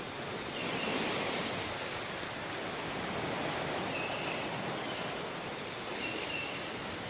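Waves washing on a tropical beach, a steady rush of surf that swells about a second in, with a few faint short high chirps over it.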